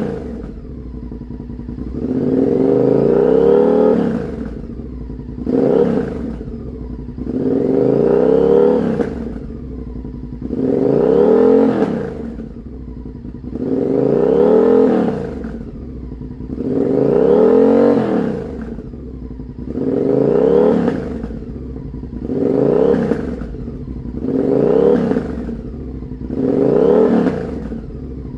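Honda Varadero 1000's V-twin engine revved through a homemade exhaust: about ten blips of the throttle, each rising and falling in pitch over a second or two, dropping back to idle in between.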